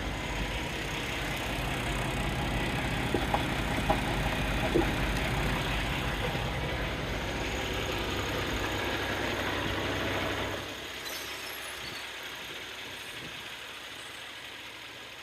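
Kenworth T680 semi truck's diesel engine idling steadily, a low even rumble, with a few light ticks. About ten seconds in the sound drops away abruptly to a much quieter background.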